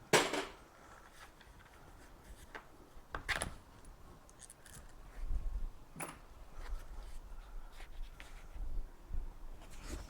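Scattered sharp clicks and light knocks of hand tools and metal parts being handled while a motorcycle is stripped down, the loudest one just at the start.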